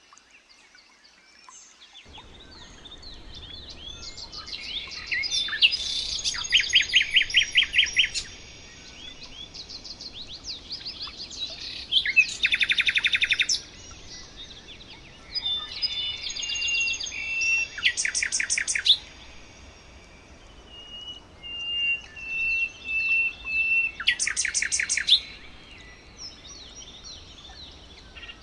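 Several songbirds singing and chirping together, with one loud rapid trill repeated about every six seconds and whistled notes and chirps between, over a faint steady background hiss.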